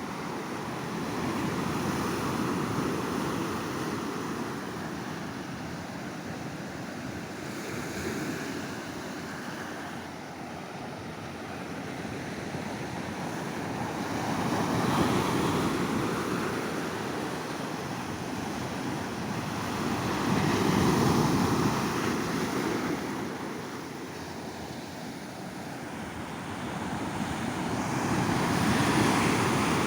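Ocean surf on a beach: waves breaking and washing up the shore in a continuous wash that swells to a louder peak about four times and falls back between.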